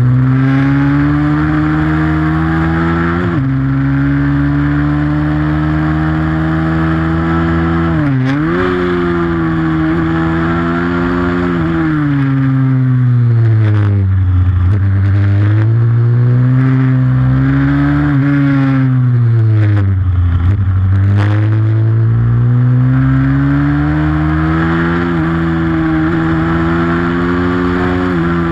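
Single-cylinder four-stroke pit bike engine under hard throttle at race pace, its pitch climbing and then dropping sharply several times as the throttle is shut and reopened.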